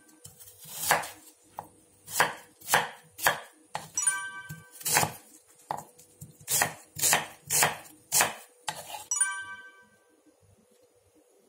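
Kitchen knife chopping a pear and then an onion on a wooden cutting board: about a dozen knocks, roughly two a second, stopping about nine seconds in. A short ringing chime sounds twice, midway and as the chopping stops.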